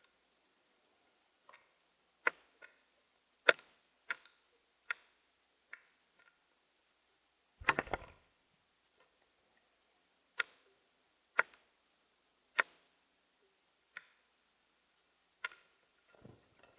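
Irregular sharp taps and clicks, roughly one every second, with a short rattling cluster about halfway through.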